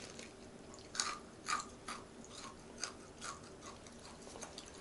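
Crispy fried chicken being chewed, a series of short crunches about twice a second.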